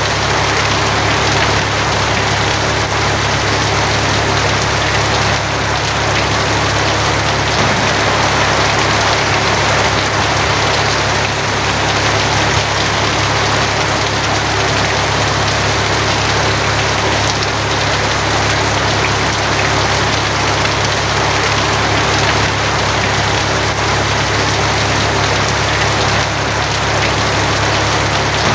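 Steady heavy rain drumming on a tin roof, with a constant low hum underneath.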